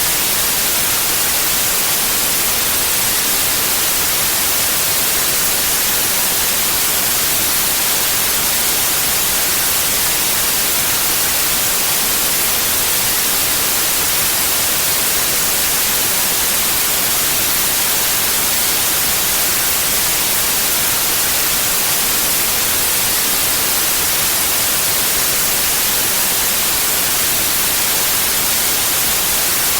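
Synthetic white noise: a steady, even hiss with no changes, brightest in the high frequencies.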